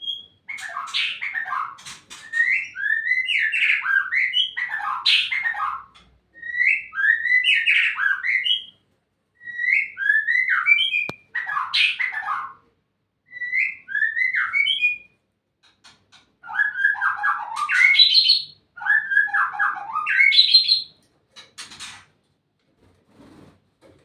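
White-rumped shama singing: a run of varied, whistled phrases with rapid pitch sweeps, each lasting one to three seconds and separated by short pauses, the last few phrases the loudest.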